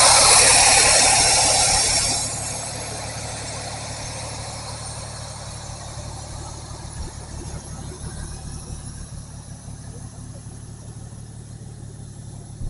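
Vehicle engine idling steadily, with a loud hiss over it for the first two seconds that then fades away.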